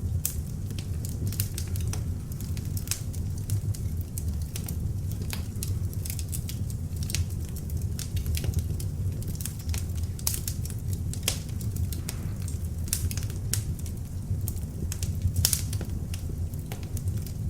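Beech-wood log fire burning in an open fireplace: a steady low rumble of flames with frequent irregular crackles and pops.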